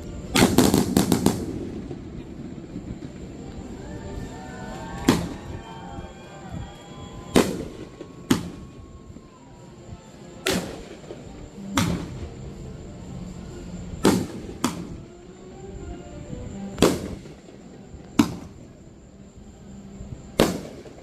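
Fireworks shells bursting: a quick run of several sharp bangs right at the start, then single bangs every one to three seconds.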